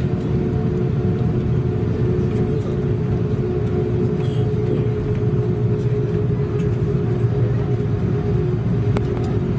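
Airbus A330-300 cabin noise on the ground before takeoff: the jet engines run steadily under a constant low rumble and a steady hum, with no spool-up.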